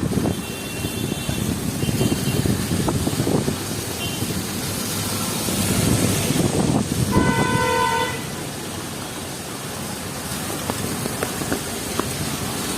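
City street traffic in heavy rain, with vehicle horns honking: several short high beeps in the first few seconds, then a louder horn blast lasting about a second, about seven seconds in.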